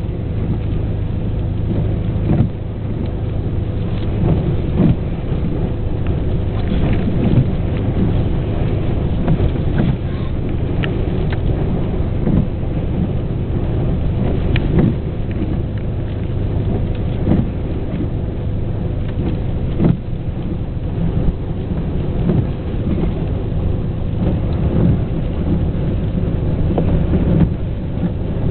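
Hurricane-force storm wind buffeting the camera microphone in gusts, a heavy continuous low rumble that swells and eases, with scattered crackles.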